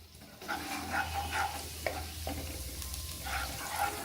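Chopped garlic sizzling as it fries lightly in hot oil in a kadai, being stirred, with a couple of sharp clicks about two seconds in.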